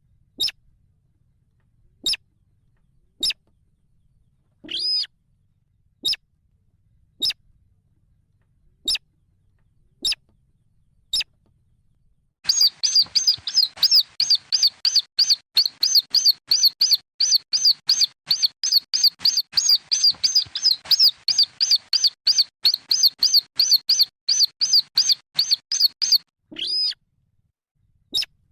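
Calls of sintar (weris) chicks, a field rail, played as a bird-caller recording: single sharp high peeps about once a second with one longer call, then a fast run of high chirps about four a second for some fourteen seconds, ending with another longer call and a last peep.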